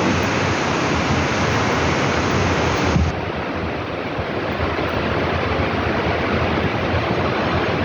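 Heavy rain pouring down, a steady loud hiss that turns a little softer about three seconds in.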